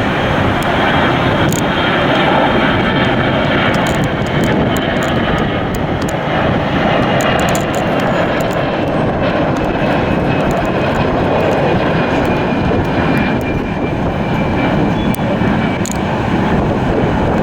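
An airliner's jet engines running loud and steady as it passes, with a faint high whine that slowly falls in pitch.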